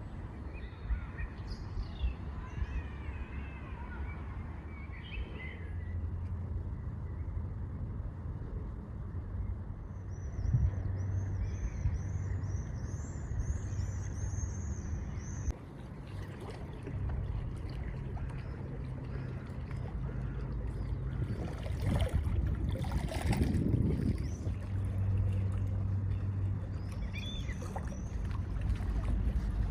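Outdoor ambience: a steady low rumble with birds chirping in the first half, and a few knocks later on.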